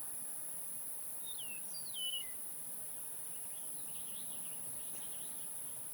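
Outdoor ambience of birds and insects: two quick descending whistled bird calls about a second and a half in, then faint twittering, over a steady high-pitched insect drone and light background hiss.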